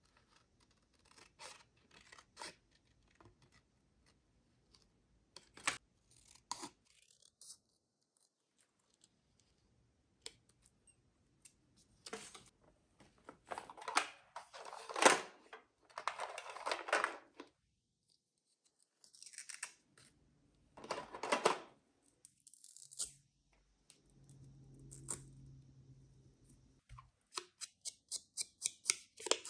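Paper crafting by hand: scattered clicks and handling, paper being torn or cut in several longer strokes, and a quick run of short scissor snips near the end, about four a second. A low steady hum runs for a few seconds past the middle.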